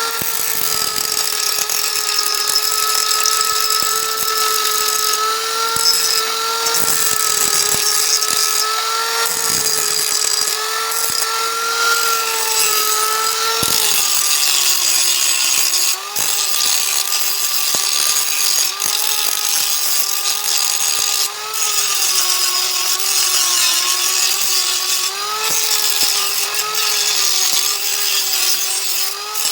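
Electric power tool running continuously with a steady motor whine, its pitch wavering and dipping slightly as it is loaded, over a strong high hiss.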